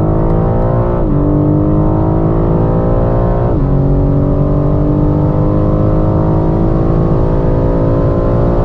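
BMW M4 Competition's twin-turbo straight-six with the M Performance exhaust, accelerating through the gears. The engine note climbs steadily and drops sharply at two upshifts, about a second in and about three and a half seconds in.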